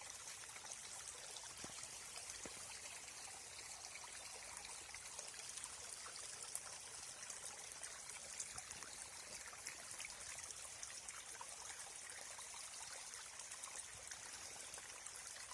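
Water trickling and running steadily, a faint even hiss with a light crackle, and one sharp click about six and a half seconds in.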